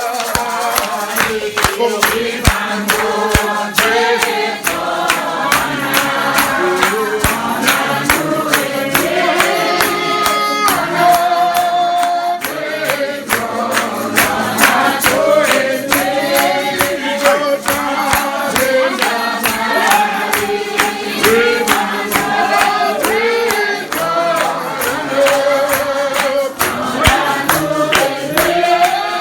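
Congregation singing a hymn together, their wavering voices over a steady percussive beat of handclaps and tambourine.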